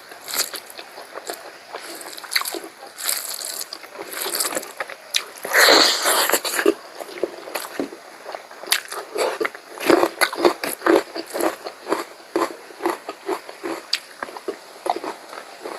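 Close-miked chewing and mouth sounds of someone eating pork curry: irregular wet smacks and clicks. A louder rushing sound lasting about a second comes about six seconds in.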